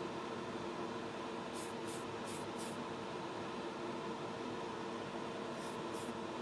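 Steady hum of a paint spray booth's extractor fan, with short hisses of paint being sprayed: four quick bursts about one and a half seconds in, then two more near the end.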